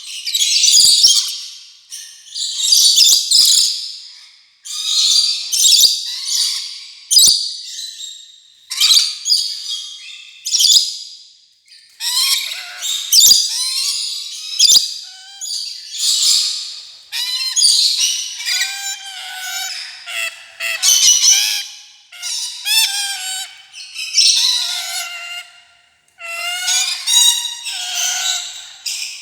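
Rainbow lorikeet chattering and screeching in harsh, high-pitched bouts every second or two, mixed with some lower whistled notes in the second half.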